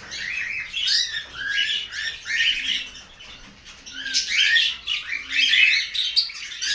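A flock of cockatiels chirping and calling together, many short overlapping calls at once. They thin out briefly about three seconds in, then pick up again.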